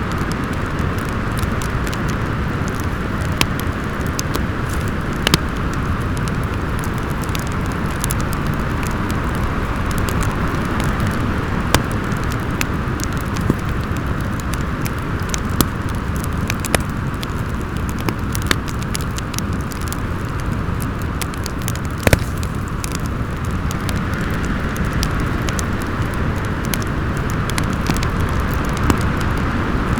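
Wind howling steadily with a wood fire crackling over it: scattered sharp pops and snaps on top of a continuous rush that swells and eases slowly.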